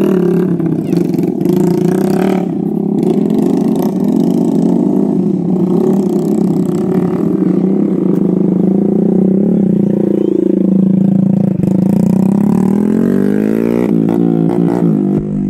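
Motorcycle engine running continuously, its pitch wavering and rising and falling as the throttle changes, most of all in the last few seconds.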